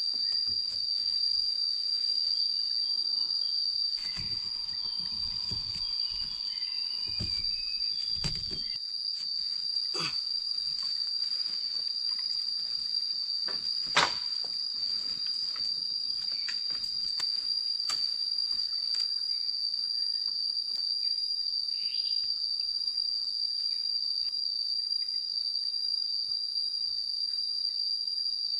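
Night insects calling in a continuous shrill drone at one steady high pitch. Low thumps and rustling come in for a few seconds near the start, and a single sharp knock sounds about halfway through.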